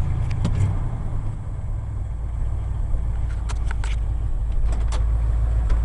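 1980 Ford F100's 302 V8 idling steadily, a low rumble that settles slightly lower about a second and a half in, with a few faint clicks.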